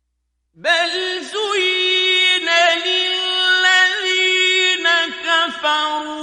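Melodic Quran recitation in the drawn-out mujawwad style: after a brief pause, a man's voice enters about half a second in and holds long, ornamented notes with slow pitch turns.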